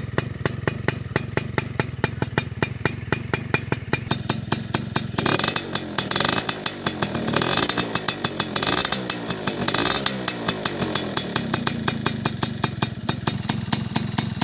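Stock Tornado motorcycle engine idling with an even, quick beat. It is revved up and down twice, from about five seconds in to about ten seconds, then settles back to idle.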